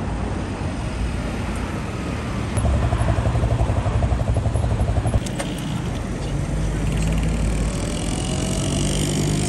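Car engine running loud with a rapid pulsing exhaust note for about two and a half seconds, stopping suddenly about five seconds in, over steady street traffic; a lower, steadier engine hum follows.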